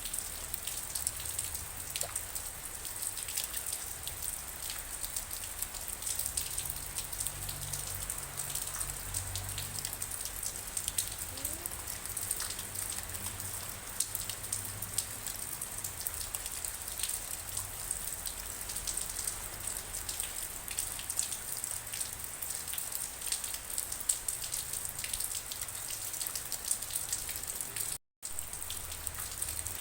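Steady rainfall, with many small drops pattering and ticking on surfaces over a soft low rumble. The sound cuts out for a moment near the end.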